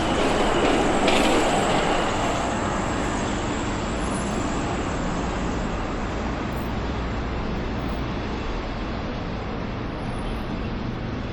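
Busy city street traffic: a vehicle passes close by in the first couple of seconds, then a steady traffic rumble continues.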